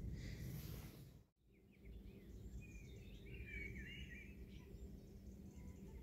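Faint outdoor ambience, with a small bird twittering faintly for a couple of seconds in the middle. The sound cuts out completely for a moment about a second in.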